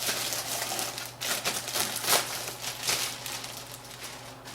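Anti-static plastic bag crinkling and rustling in irregular bursts as it is handled, over a steady low hum.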